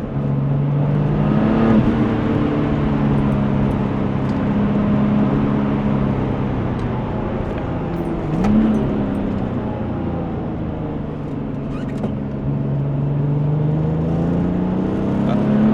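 Porsche 996 Turbo's 3.6-litre twin-turbo flat-six running under load. Its pitch rises about two seconds in, flicks up sharply in a quick rev around eight and a half seconds in, and climbs steadily again near the end as the car accelerates.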